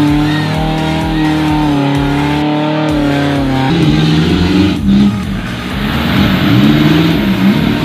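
Off-road 4x4 engines working hard in mud. A Suzuki Jimny's engine is held at high, steady revs. Then, after a sudden change about three and a half seconds in, a Toyota Land Cruiser's engine revs up and down as it ploughs through the mud.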